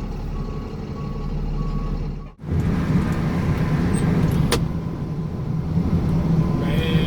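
Box truck's engine running with a steady low rumble, with three short high beeps in the first two seconds. After a brief cut-out about two seconds in, the engine rumble comes back louder and deeper, with a couple of light clicks.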